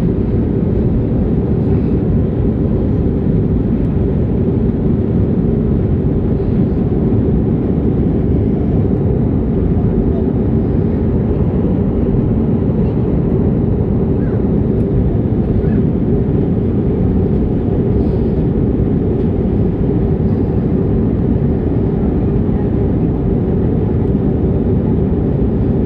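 Airliner cabin noise in flight: a loud, steady low rumble of the jet engines and airflow with a faint steady hum in it, unchanging throughout.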